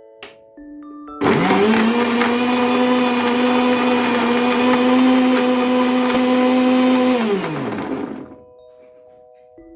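Electric kitchen blender switched on about a second in. Its motor spins up to a steady high run for about six seconds, then is switched off and winds down with a falling pitch.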